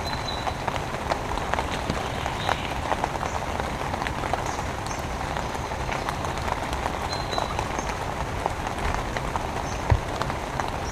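Steady rain falling, with many separate drops pattering close by.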